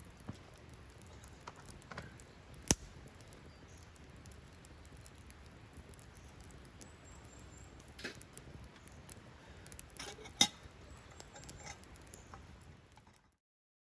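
Campfire crackling: a low steady hiss with scattered sharp pops, the two loudest about three seconds in and about ten seconds in. The sound cuts off abruptly near the end.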